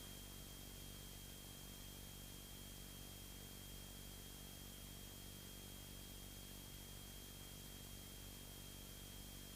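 Faint, steady hiss and hum of a light aircraft's cockpit audio feed between radio calls, with a thin, steady high-pitched tone.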